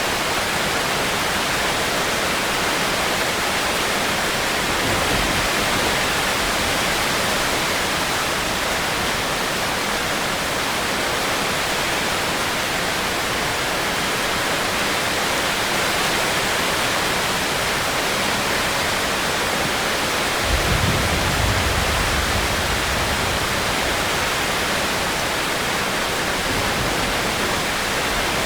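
Steady rain falling as an even hiss, with a brief low rumble about two-thirds of the way through.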